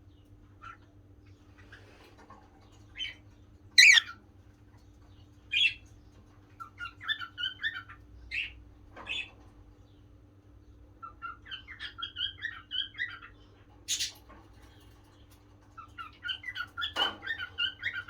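Cockatiel calling: scattered single sharp chirps, the loudest about four seconds in, and three runs of quick chattering notes lasting a couple of seconds each.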